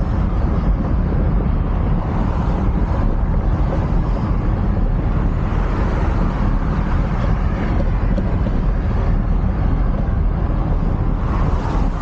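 Wind buffeting the microphone of a moving bicycle's camera: a steady, loud rushing rumble with no break.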